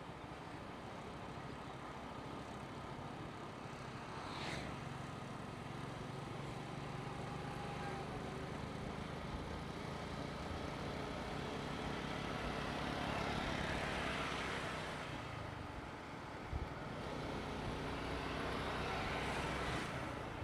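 Motorcycle running at road speed, heard from a helmet camera: a steady engine drone under road and wind noise, with the noise swelling twice, about two-thirds of the way through and again near the end.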